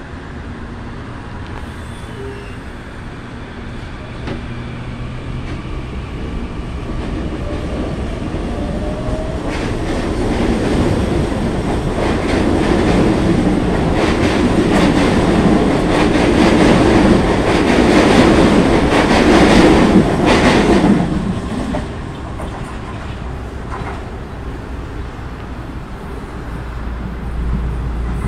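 CPTM electric multiple-unit commuter train pulling out along the platform: a faint rising motor whine, then wheels clattering over rail joints. The sound grows louder to a peak about twenty seconds in, drops off sharply, and builds again near the end as another train approaches.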